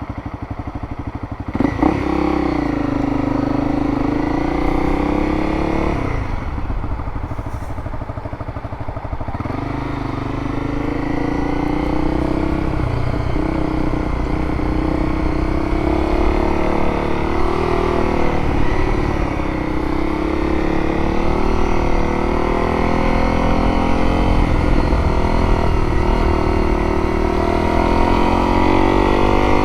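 Motorcycle engine being ridden through slow turns, its pitch rising and falling as the throttle is opened and closed. It picks up sharply about two seconds in.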